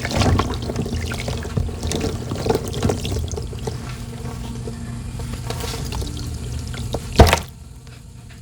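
Sand and water being poured by hand into water, an irregular wet pouring and splashing with many small splashes. One sharp, loud splash about seven seconds in, after which it goes quieter.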